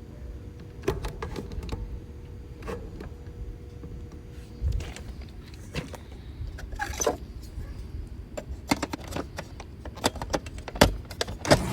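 Scattered clicks, knocks and rattles of hands handling parts and tools, over a low rumble, with a faint steady hum in the first half and a few sharper, louder knocks near the end.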